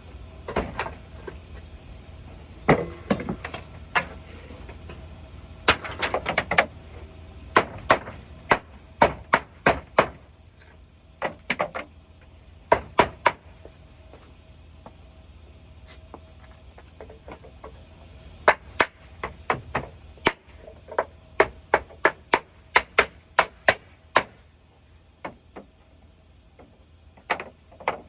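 Hammer blows on a wooden pallet, in runs of several quick strikes with short pauses between.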